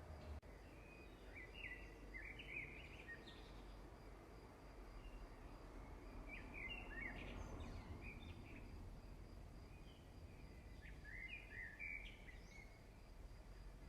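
Faint birdsong: a small bird repeating short phrases of quick chirping notes every four to five seconds, over a steady low hum.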